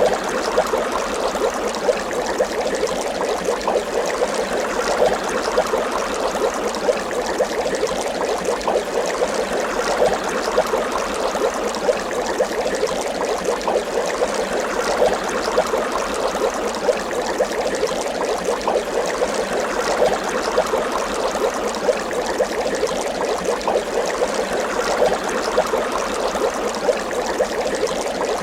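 Water bubbling steadily, a continuous dense stream of small bubbles popping and gurgling.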